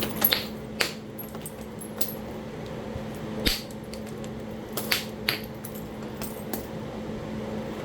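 Percussion flintknapping of Talahata quartzite: about seven sharp, clinking strikes at irregular intervals as flakes are driven off while bifacing. A steady electric fan hum runs underneath.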